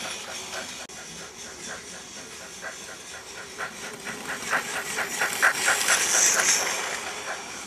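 Toy Thomas the Tank Engine train running along its track, giving a hissing steam sound over a run of quick clicks that get louder about halfway through and fade near the end.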